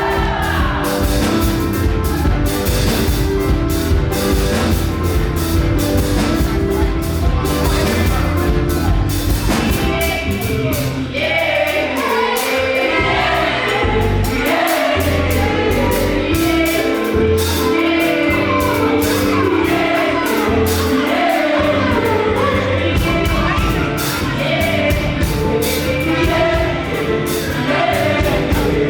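Live up-tempo gospel praise music: a choir and lead singers over a band with drums and bass. The drums drop out for about ten seconds in the middle while the singing carries on, then come back in.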